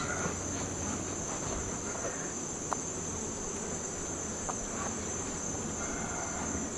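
Steady high-pitched chorus of insects, with two faint clicks.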